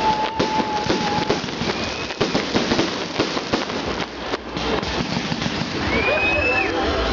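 Fireworks salute: a dense, continuous run of bangs and crackles, with a few short whistling tones.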